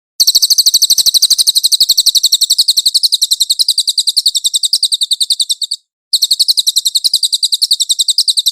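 Cililin songbird singing a fast, high-pitched trill of rapidly repeated notes, in two long bouts broken by a short pause about six seconds in.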